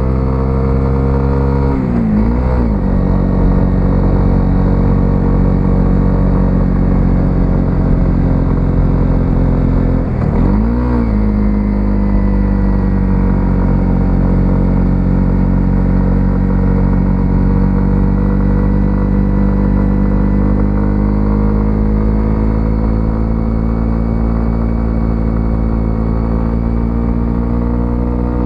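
Single-cylinder 125cc motorcycle engine running under way, the revs dipping and picking up again twice, about two seconds in and again near the middle, then holding fairly steady with slow rises and falls in pitch.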